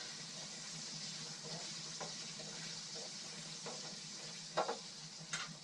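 Chicken pieces and split chickpeas frying in oil in pans: a faint, steady sizzle. A spatula scrapes and clicks against the pan a few times, loudest near the end.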